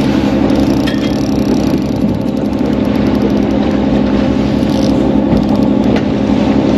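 Fishing boat's engine running with a steady hum.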